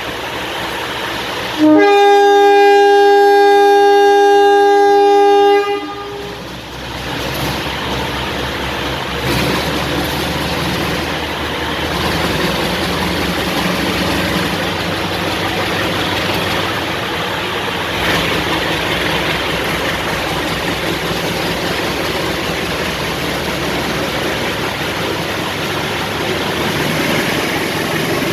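Locomotive air horn sounded once, a loud chord of several steady tones held for about four seconds. Then a passing train runs through the station with a steady rumble.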